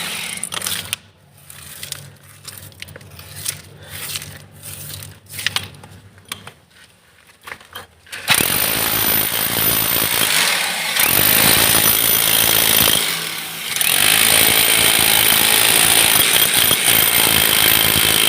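Hammer drill drilling: a loud burst at the start, then several seconds of quieter clicks and knocks, then steady hammer drilling from about eight seconds in, broken by two brief pauses.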